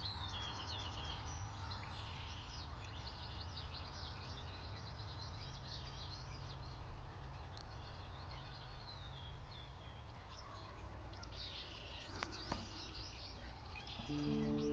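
Wild birds chirping and trilling in a meadow, many short calls overlapping, over a steady low rumble. A single sharp click comes about twelve seconds in, and soft sustained music begins at the very end.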